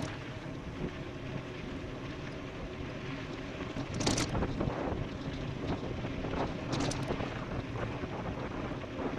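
Wind rushing over the microphone of a fast-moving e-bike on a downhill run, with steady tyre and ride noise beneath it. Two short, louder hisses break through, about four and about seven seconds in.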